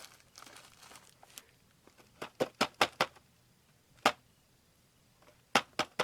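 Sharp clicks and taps of the animatronic prop's plastic parts being handled, a few in quick succession about two seconds in, a single louder one about four seconds in, and more near the end.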